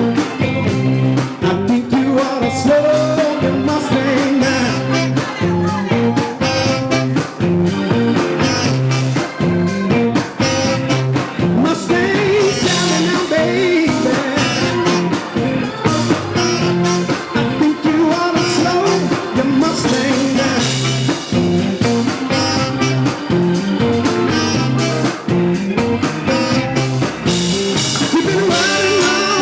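Live blues band playing with guitar, drums and a singer.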